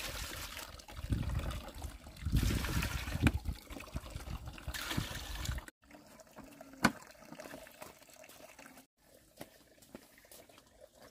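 Water splashing and running in several bursts, then a quieter stretch with a single sharp click.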